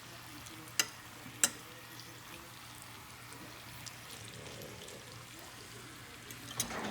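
Chicken chunks frying in olive oil in a pan, a steady light sizzle, with two sharp clicks about a second in and a low steady hum underneath.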